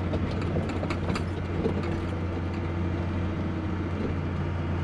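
An old snowcat's engine running steadily under load while it pushes through deep snow, with scattered clicks and rattles over a low drone, most of them in the first second and a half.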